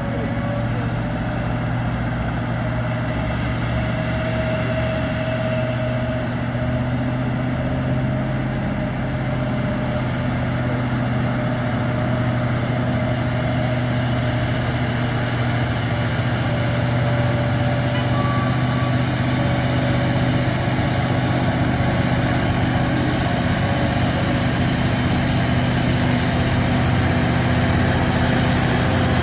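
Truck engine running steadily under load, slowly growing louder, with a thin high whine that rises slightly in pitch.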